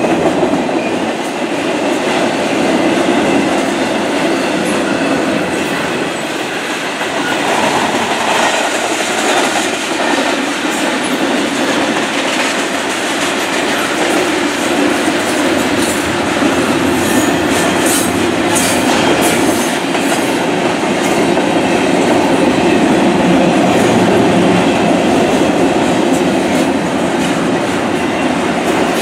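Double-stack intermodal container well cars rolling past: a steady noise of steel wheels on rail, with a cluster of sharp high clicks about two-thirds of the way through.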